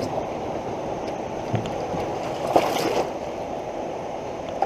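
Fast floodwater in a creek rushing steadily. There is a short knock about one and a half seconds in and a brief splash or clatter around two and a half seconds in, typical of a canoe and paddle in the current.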